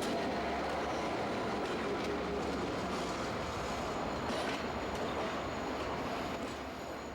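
A train running along the track: a steady rumble and rail noise with a few faint clicks, easing down near the end.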